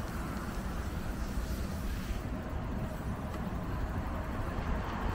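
115 series electric train pulling slowly out of the station: a low, steady rumble of wheels and running gear.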